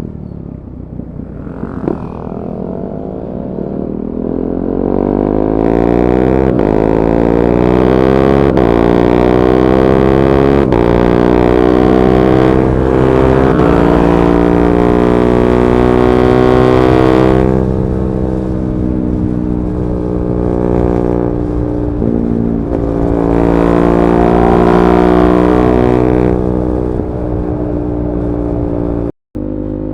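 KTM 390 Duke's single-cylinder engine through a decat pipe and Akrapovic slip-on exhaust, accelerating hard through the gears with quickshifter upshifts that briefly cut the sound about every two seconds. It eases off about halfway through, then pulls through the gears again.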